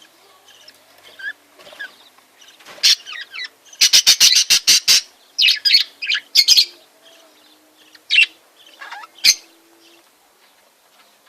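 Small cage birds chirping and calling in short, high bursts, with a quick run of sharp chirps about four seconds in.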